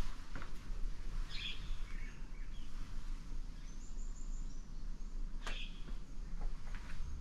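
Birds chirping briefly over steady outdoor background noise, with a single scuff of a footstep about five seconds in.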